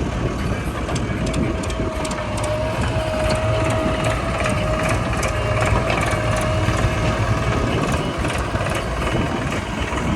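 Heavy diesel earth-moving machinery running steadily, with a thin, slightly wavering whine that joins about a second in and stops about three-quarters of the way through.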